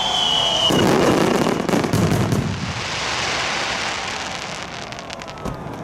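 Fireworks display: a whistling shell falls in pitch and ends under a second in, then deep booms of shells bursting, with crackling, fading toward the end.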